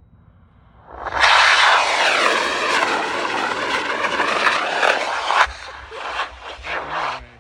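An L850 high-power rocket motor ignites about a second in and burns with a loud, steady roar for about four and a half seconds. The roar then breaks into weaker, uneven surges that die away near the end.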